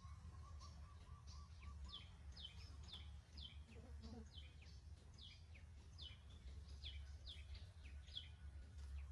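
A bird calling faintly: short, high chirps that fall in pitch, repeated about twice a second, over a steady low rumble.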